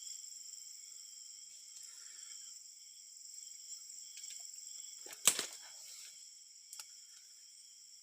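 Steady high-pitched chorus of insects, with a single sharp click or snap about five seconds in and a fainter tick a little later.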